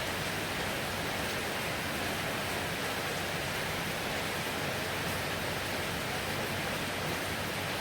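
Heavy rain falling, a steady, even hiss with no letup and no thunder.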